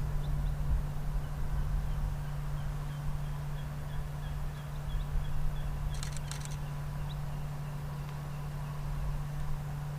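Wind gusting on the microphone as a fluctuating low rumble over a steady low hum, with faint high chirps repeating a few times a second for a while and a quick cluster of sharp clicks about six seconds in.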